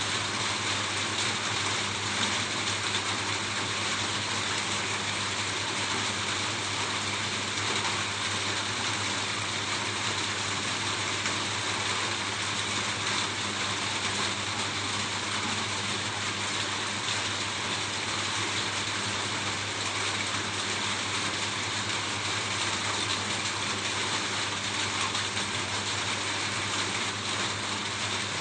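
Steady rain falling on a roof: an even, unbroken hiss of many drops with a steady low hum underneath.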